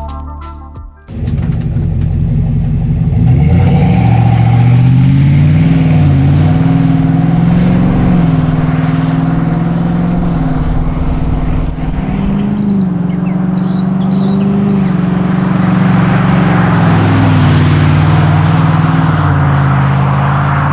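Exhaust of a 6.2 L V8 through an MBRP 3-inch cat-back system with quad rear exit tips. It cuts in about a second in and revs up and down repeatedly.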